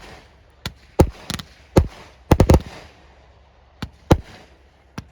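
Fireworks exploding in a display: about ten sharp bangs at irregular spacing, with a quick run of three close together about two and a half seconds in, each trailing off in a short echo.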